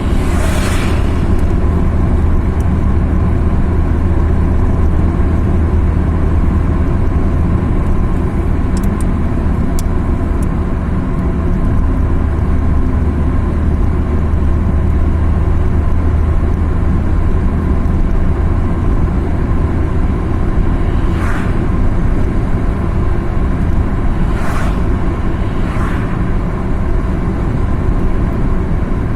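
Car driving along a road: a steady low engine drone with constant road and tyre noise. A few brief rushing noises stand out near the start and three more come in the last third.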